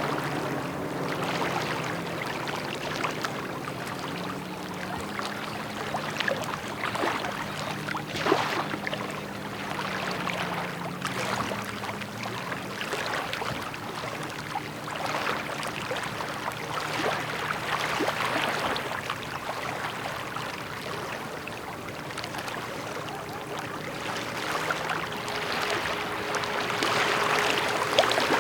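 Rain falling, heard as a steady hiss dotted with many sharp drop ticks, over a faint low steady hum that shifts slowly in pitch.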